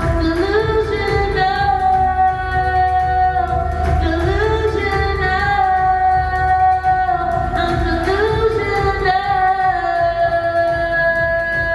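Live electronic pop song: a singer holds long sung notes in three phrases, each sliding into pitch, over a backing with a steady low bass.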